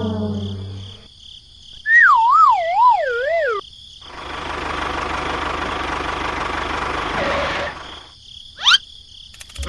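A string of cartoon sound effects: a wobbling, falling whistle, then about four seconds of a noisy, rushing hiss, then a quick rising whistle near the end.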